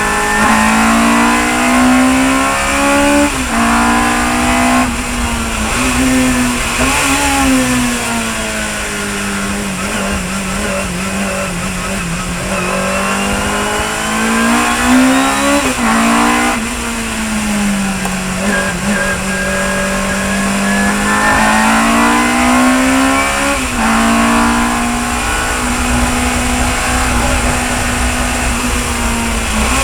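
Chevron B19 sports racing car's engine running hard at racing speed. The pitch climbs and breaks off sharply at each gear change, then falls away in long slides as the car slows, over and over.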